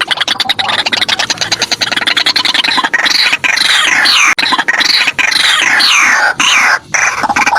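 White-breasted waterhen calling: a fast run of rapid, evenly repeated notes for about three seconds, then a string of falling calls, two or three a second.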